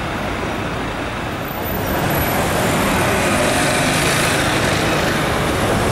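Busy city-street traffic noise, a steady roar of engines and tyres that swells louder about two seconds in and holds.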